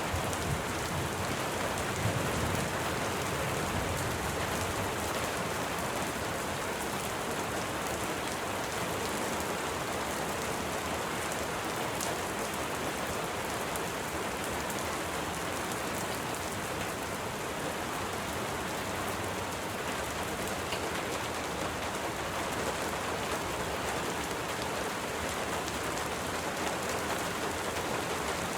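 Steady, even rainfall, with a low thunder rumble dying away in the first few seconds.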